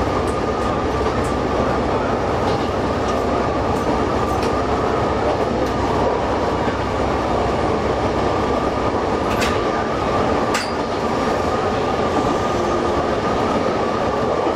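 Diesel railcar running steadily along single track, a continuous rumble of engine and wheels with a steady whine. Two sharp clicks come about two-thirds of the way through, like wheels passing over rail joints.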